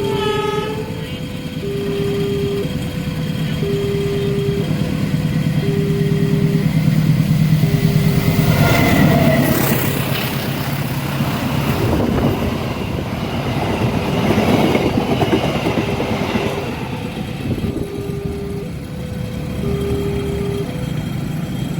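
Railway level-crossing warning alarm sounding in an even on-off pattern, about one beat a second with two alternating pitches, as a train passes. A short horn sounds near the start and again about nine seconds in, and the rumble of the passing train swells through the middle and fades.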